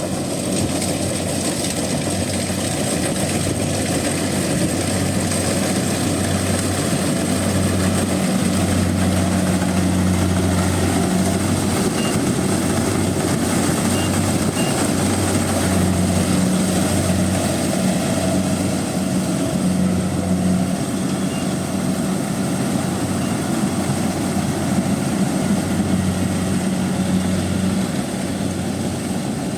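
Rice combine harvester engine running steadily, a low drone that swells and eases slightly without stopping.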